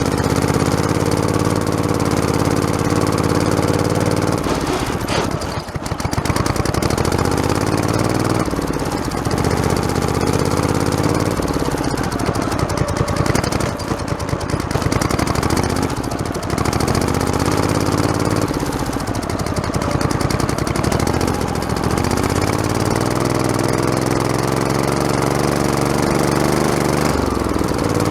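Lawn tractor engine running under load as the tractor drives a rough trail, its pitch dipping and picking up again several times as it labours and recovers, with rattling from the bumper-mounted camera over the bumps.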